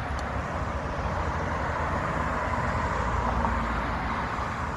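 Steady road and traffic noise: a low rumble with a hiss that swells slightly around the middle.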